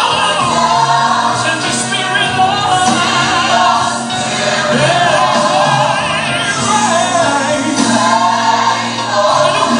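Gospel worship song: a choir singing over a steady band accompaniment.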